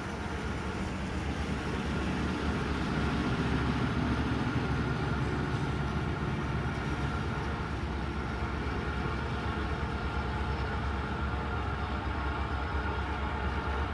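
Diesel freight train rumbling steadily, unseen and approaching the grade crossing, growing a little louder over the first few seconds.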